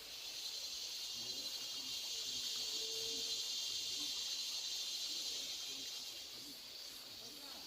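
A cicada's high, shrill buzzing song swells up over the first few seconds, holds, then fades away near the end.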